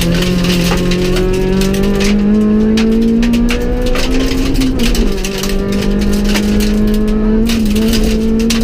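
Honda Civic EK4 rally car's four-cylinder engine, heard from inside the cabin, running hard at high revs. Its note climbs slowly, dips once about five seconds in, then climbs again. Sharp clicks and rattles run throughout.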